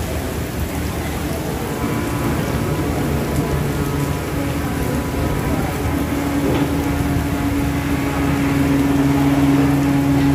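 Steady rain falling, with the low steady hum of a diesel locomotive's engine coming in about two seconds in and growing stronger from about six seconds.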